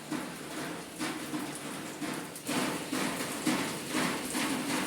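Steady rain falling, with irregular drops tapping sharply on a hard surface.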